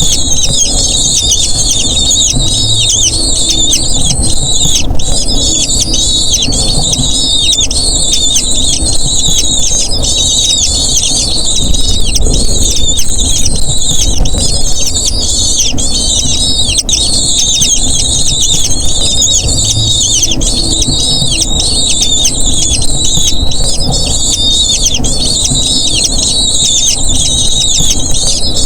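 Eagle chicks calling without pause, a dense run of rapid high-pitched squeals typical of begging for food, over a low rumble.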